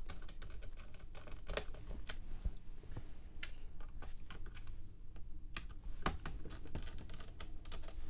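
Irregular light clicks and taps from working a precision screwdriver on the small screws that hold a laptop's hard drive bay, with tiny screws set down on a hard desk.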